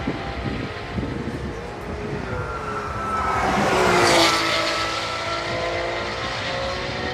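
A race car drives past at speed during warm-up: its engine note swells to a peak about four seconds in, then drops in pitch as it moves away, over the steady engine drone of other cars on track.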